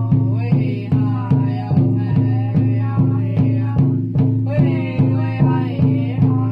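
Powwow big drum struck in a steady, even beat of about two and a half strokes a second, with singers chanting a song in vocables over it.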